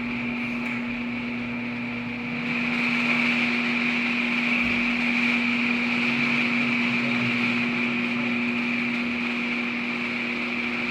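Genie screw-drive garage door opener running as it raises the door: a steady motor hum with a higher whir over it. It grows a little louder about two and a half seconds in.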